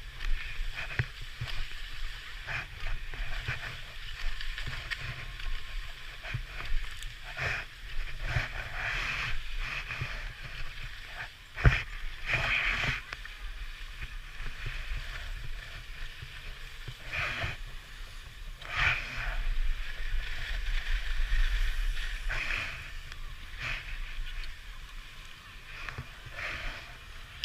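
Skis scraping and hissing over packed snow, the rush swelling with each turn, under a steady low wind rumble on the camera microphone. One sharp knock a little under halfway through.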